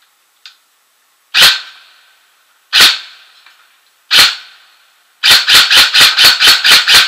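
Electric airsoft sniper replica powered by an 11.1 V LiPo battery, firing three single shots about a second and a half apart, then a rapid automatic string at about four to five shots a second.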